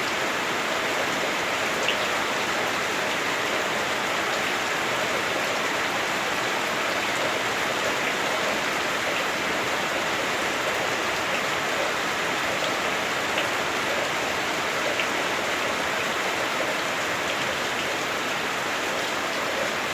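Heavy rain drumming on a house roof, heard from inside: a steady, dense hiss with a few sharper drop ticks scattered through it.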